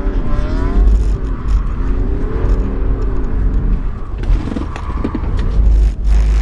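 BMW 335d's twin-turbo straight-six diesel heard from inside the cabin, the revs rising and falling several times as the car is drifted, over a heavy low rumble. A short loud rush of noise near the end.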